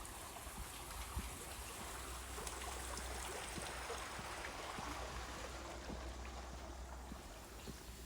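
Rushing water of a stream, a steady hiss that swells slightly midway, with a low rumble of wind on the microphone underneath.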